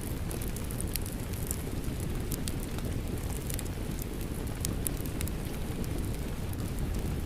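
Wood fire crackling, with scattered sharp pops and snaps over a steady low rumbling hiss, blended with falling rain.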